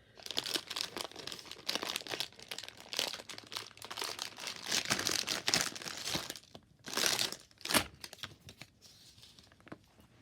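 Packaging of toy heart-shaped slinkies crinkling and tearing as it is opened by hand, in irregular bursts with the loudest crackle about seven seconds in, then dying down to faint rustling.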